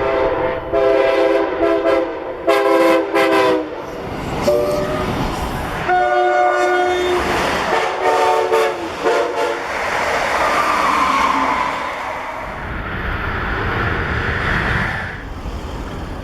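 Locomotive air horn sounding a series of long and short blasts as a train approaches a grade crossing, followed by a steady rushing noise of the passing train.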